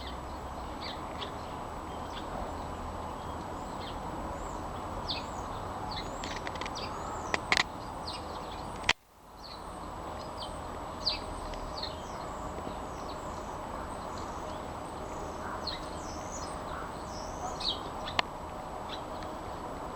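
Small garden birds chirping, many short scattered calls over a steady outdoor background hiss, with a sharp click about nine seconds in.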